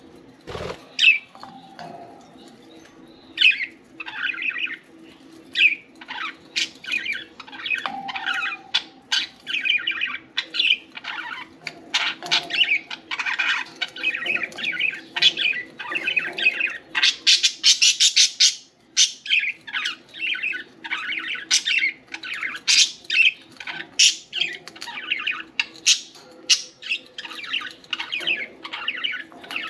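Several budgerigars chirping and chattering continuously in quick, overlapping calls, thickest in a dense burst a little past halfway. A single thump comes about half a second in.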